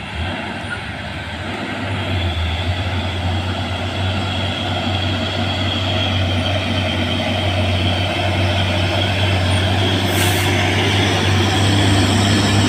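Heavy diesel trucks pulling up a hill under load, their engines running with a deep steady drone that grows louder as they come closer. A short hiss about ten seconds in.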